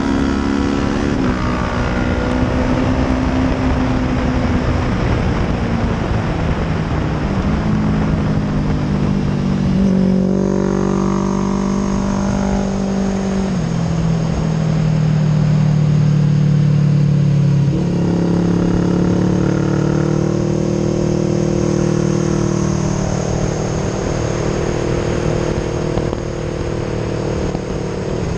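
Honda 250RR sport bike's engine heard close up from a camera on its fairing while lapping a race track, the note climbing and then stepping down or up with gear changes several times, over a steady rush of wind and road noise.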